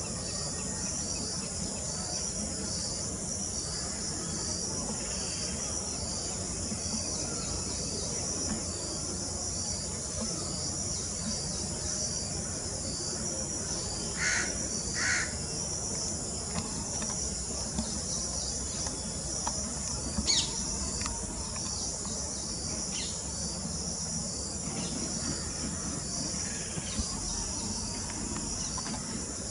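Steady, high-pitched chorus of insects such as crickets, with a few short bird calls cutting in: two about 14 and 15 seconds in, and another around 20 seconds.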